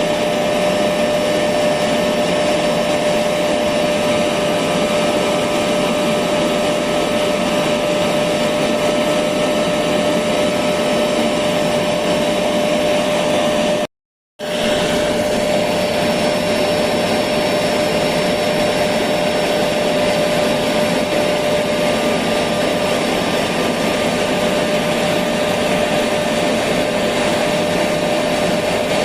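Electric vacuum cleaner running steadily: a constant rushing noise with a steady tone through it. It cuts out for about half a second halfway through, then carries on unchanged.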